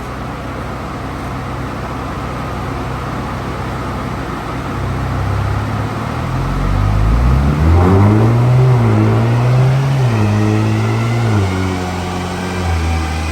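Car engine running over a steady background noise, revving up about halfway in, holding high revs for a few seconds, then dropping back to a lower steady speed.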